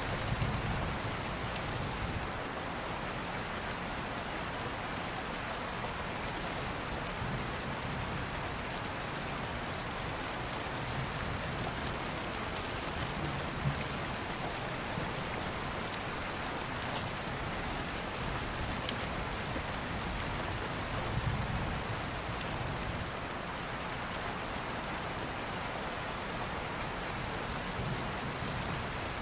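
Steady rain pattering, with soft low rumbles of distant thunder coming and going every several seconds, and a few faint clicks.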